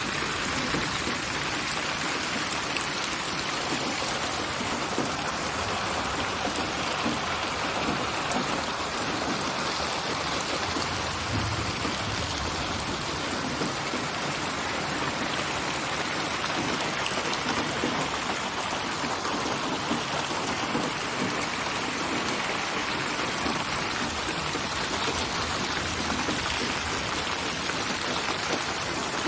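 Steady rain falling, an even hiss of drops on a surface that stays the same throughout.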